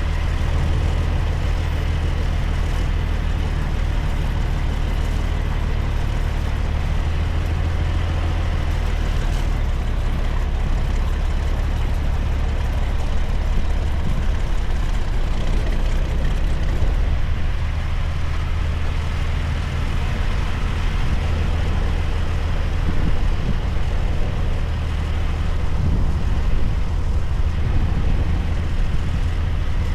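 Heavy truck's diesel engine running steadily as the truck hauls a heavy excavator load, a deep continuous drone with road noise above it.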